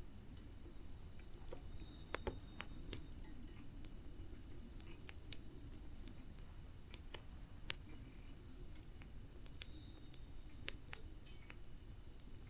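Wood campfire crackling: irregular sharp pops and snaps, a few louder ones about two seconds in and near eight seconds, over a low steady background of the burning fire.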